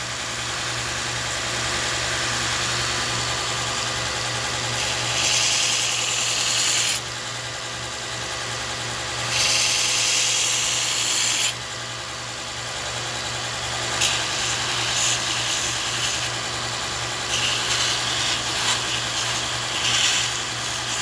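Belt sander running with a steady motor hum while the steel spine of a knife is pressed to the belt in passes, each pass adding a hissing grind that starts and stops every few seconds.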